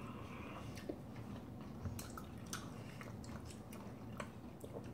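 Faint chewing of juicy citrus segments, with scattered small clicks.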